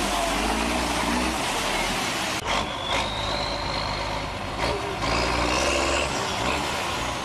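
Heavy diesel truck engine running hard off road, with a loud noisy rush over its low drone. The sound changes abruptly about two and a half seconds in and again near five seconds.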